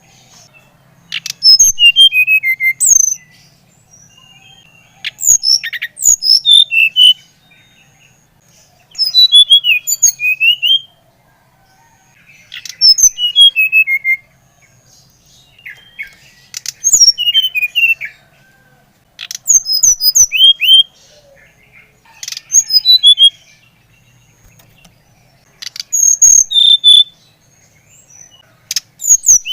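An SRDC (sikatan rimba dada coklat, the brown-chested jungle flycatcher) singing short phrases of quick, mostly falling whistled notes, a phrase about every three to four seconds, over a faint low hum.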